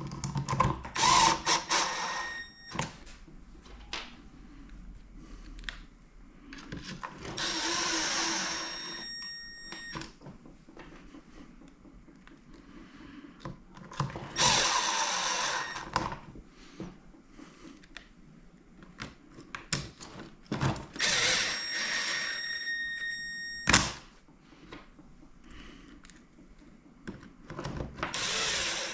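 Cordless power driver running in five short bursts of about two seconds each, driving screws back in as the RC truck is reassembled, with small knocks and clicks of parts and tools in between.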